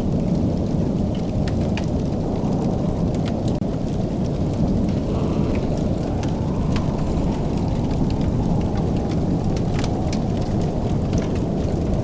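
Wood fire crackling, with sharp pops scattered irregularly over a steady low rumble.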